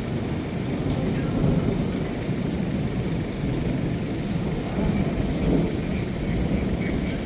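Low rolling rumble of thunder during a rainstorm, swelling about a second and a half in and again around five seconds, over the steady hiss of rain.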